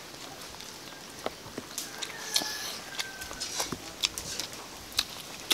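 Eating sounds from people eating fried pork ribs with their hands: chewing, lip smacks and small crunches in scattered short clicks.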